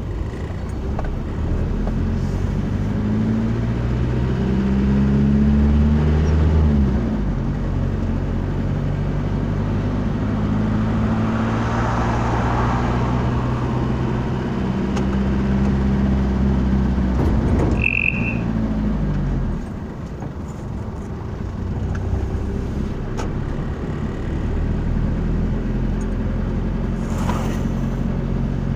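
A motor vehicle engine running while under way, its pitch climbing slowly and then dropping sharply twice, as with gear changes. A short high beep sounds about two-thirds of the way through.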